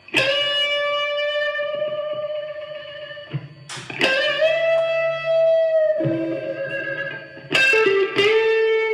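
Clean, bright electric guitar playing long sustained single notes with small string bends, each note picked and then held for seconds, its sustain stretched by compression from a Boss CS-2 compressor ahead of the amp stack, with a little reverb and no delay.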